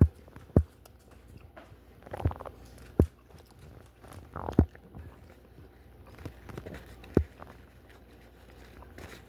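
Scattered sharp knocks and taps, about six in nine seconds, with faint handling noise between them: food, wrappers and boxes being picked up and set down on a table during a meal.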